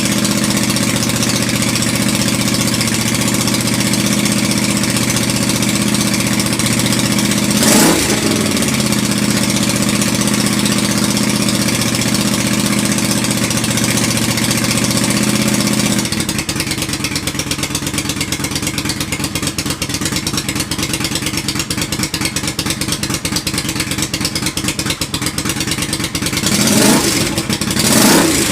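Motorcycle engine of a freshly built cafe racer idling steadily, with a quick throttle blip about eight seconds in. About halfway through the idle drops to a lower, more uneven beat, and near the end the throttle is blipped twice.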